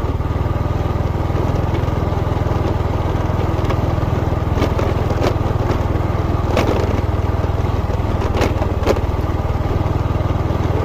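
Small motorcycle engine running steadily underway, with a low rapid firing pulse and scattered sharp clicks and knocks over it.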